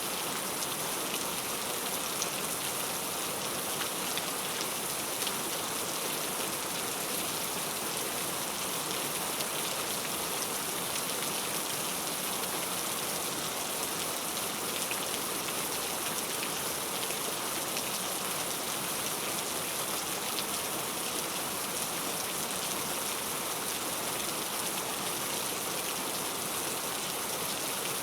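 Steady heavy rain falling on a surface, an even hiss with scattered small drop ticks.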